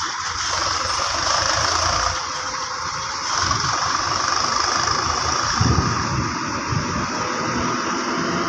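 Heavy diesel machinery running, with two short knocks in the second half.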